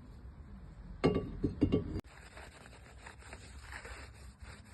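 A quick run of metallic clinks and knocks about a second in, ending in a sharp click, as metal brake parts and tools are handled. Faint handling noise fills the rest.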